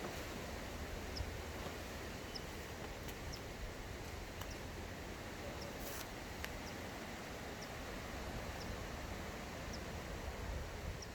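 Outdoor nature ambience: a steady low background hiss with a short high chirp about once a second and a few faint clicks.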